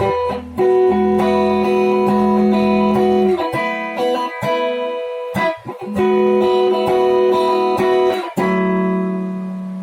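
Jcraft LTX Telecaster-style electric guitar playing a sequence of clean chords, each struck and left to ring for a second or more, the last one held from about eight and a half seconds in.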